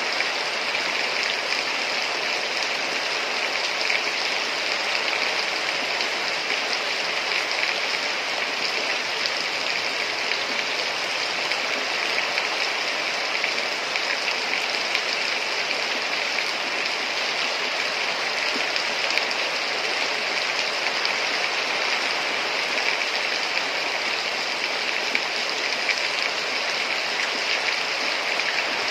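Heavy rain falling steadily, a dense even hiss with fine drop ticks throughout.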